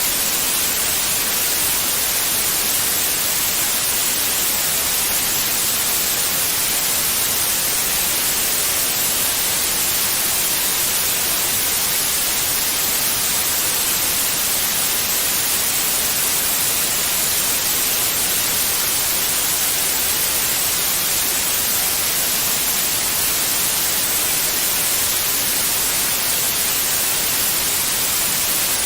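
Steady white noise: an even, unbroken hiss, strongest in the high end, that does not change.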